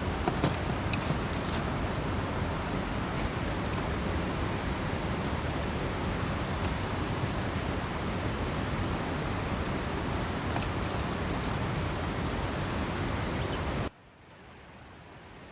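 Wood campfire burning, with scattered crackles and pops over a steady rushing noise. It cuts off abruptly near the end, leaving only a faint hiss.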